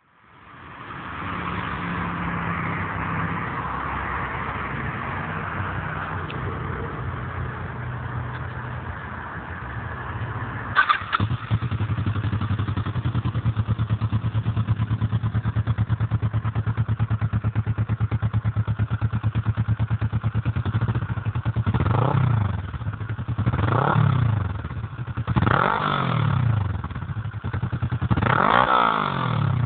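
Kawasaki ER-6n parallel-twin engine running through a Quat-D aftermarket exhaust with its baffle fitted: a steady idle with a brief sharp knock about eleven seconds in, then from about two-thirds of the way through five quick throttle blips, the revs rising and falling each time.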